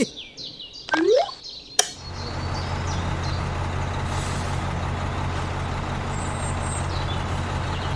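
A mini tractor's motor starts running about two seconds in and keeps up a steady low hum. Before it come a couple of seconds of short squeaky rising tones.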